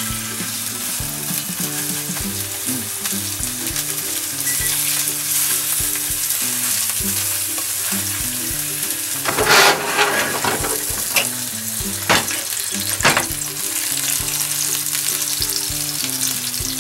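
Spanish mackerel fillets frying skin side down in oil in a nonstick Teflon frying pan: a steady sizzling hiss, with a few louder crackling bursts of spatter a little past the middle.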